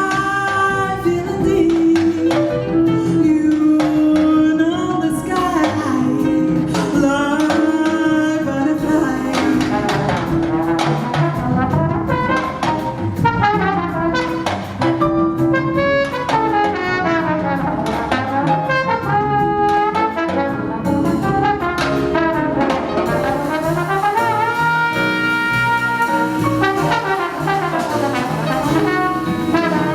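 Live jazz band playing, with a trumpet carrying a moving, gliding melody over the band's accompaniment and percussion.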